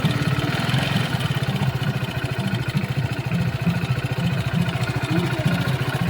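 Hero Splendor Plus BS6's single-cylinder engine idling steadily just after starting. Its magneto rotor nut has been freshly tightened; that nut had come loose and was the cause of a rattling noise from the engine.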